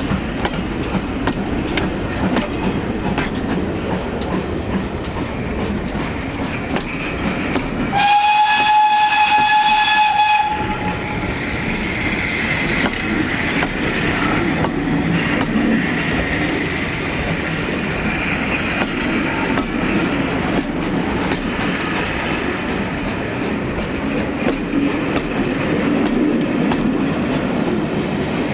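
Heritage train running on the line, with a steady rumble and wheel clatter over the rails. About eight seconds in, one long single-note whistle sounds for about two and a half seconds.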